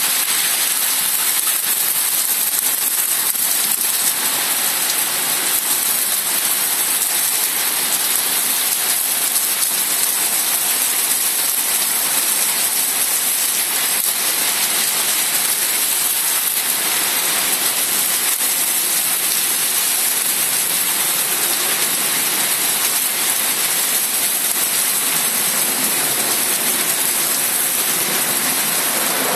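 Torrential rain falling on a paved street and parked car roofs, a steady, even hiss that does not let up.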